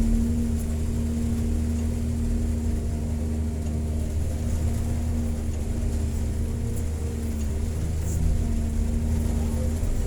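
Excavator's diesel engine running steadily, holding one even pitch throughout.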